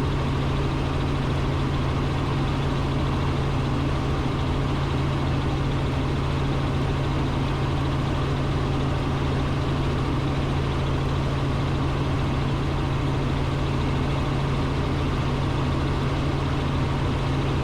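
Robinson R44 Raven II helicopter in cruise flight heard from inside the cockpit: a steady drone of the rotors and the Lycoming six-cylinder piston engine, with a strong low hum.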